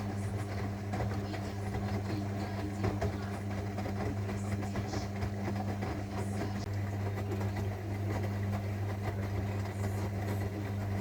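Zanussi washing machine running, its motor giving a steady low hum throughout.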